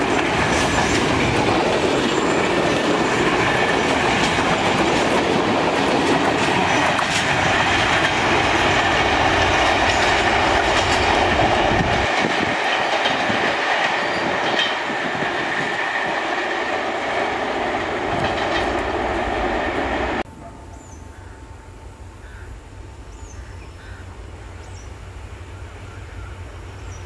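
Passenger coaches of a diesel-hauled train rolling past, wheels clattering over the rail joints, easing off as the train draws away. About twenty seconds in it cuts suddenly to the much quieter low, steady rumble of an M11-class (WDG4D) diesel-electric locomotive approaching from a distance, with a few faint chirps.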